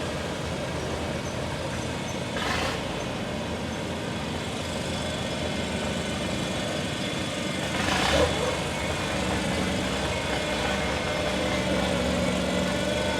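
An engine running steadily, with two short bursts of hissing noise, the first about two and a half seconds in and the second about eight seconds in.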